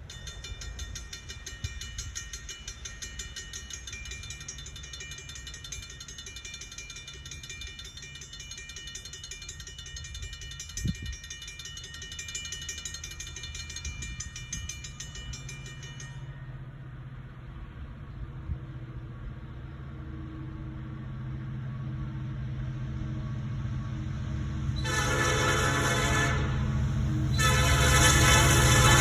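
A rapid, pulsing high ringing stops about halfway through. Then an approaching NYSW freight locomotive's low rumble builds steadily louder, and its air horn sounds two blasts near the end, the first about a second and a half long, the second still going at the end.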